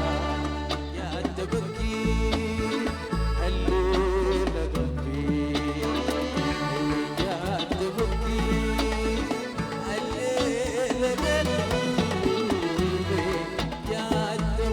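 Sudanese popular song played by a live band, with a wavering melodic line over sustained low bass notes.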